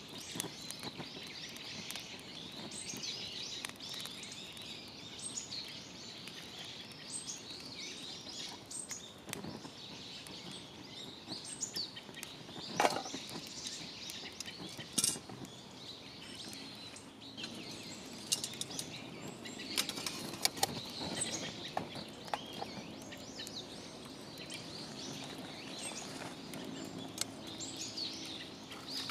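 Small birds chirping and calling again and again over a steady outdoor hiss, with a few sharp pops or clicks, the loudest about halfway through.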